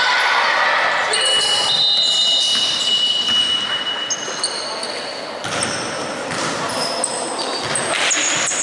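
Basketball game in a gym: sneakers squeal on the hardwood court in short high squeaks, while the ball bounces and voices echo through the hall.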